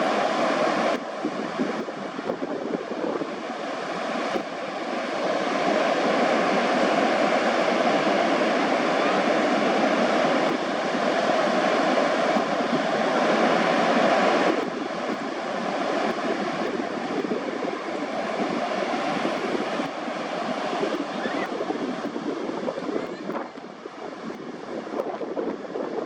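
Steady rushing outdoor noise with a faint steady tone running underneath. It drops sharply about halfway through and then carries on at a lower level.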